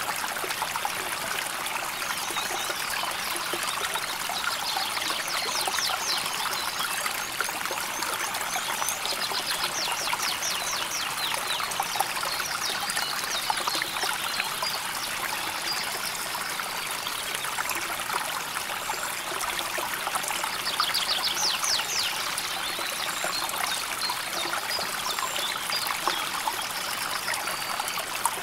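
River water flowing and trickling steadily over stones in a continuous gentle rush. Birds trill faintly now and then above it, three times most clearly.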